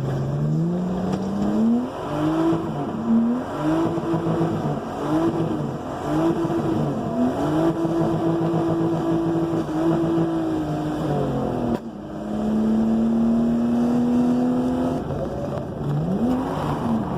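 Drift car engine revving hard, its pitch climbing, dipping and climbing again about once a second as the throttle is worked, then held high for a few seconds before dropping. Just past the middle, an abrupt change to a steadier engine note that rises slowly, then more revving near the end.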